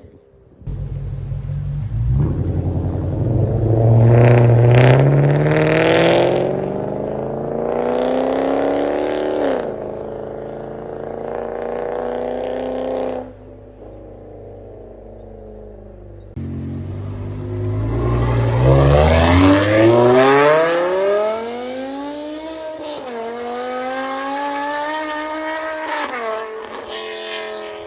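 BMW engine accelerating hard, its pitch climbing in long pulls and dropping back between them: once about a third of the way in, again near the middle, and in shorter dips toward the end.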